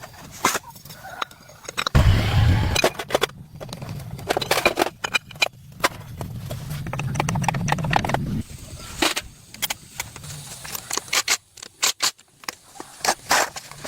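A car engine starts with a sudden low burst about two seconds in and runs for about six seconds, rising slightly before cutting off abruptly. Sharp metallic clicks and clinks sound throughout.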